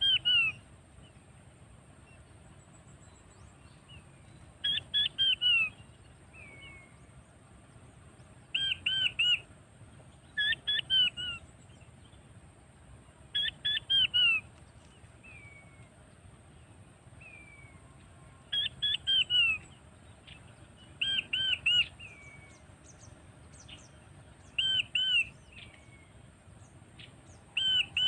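King quail calls: loud groups of three or four high, descending whistled notes, repeated about every two to five seconds, with softer single whistles in between.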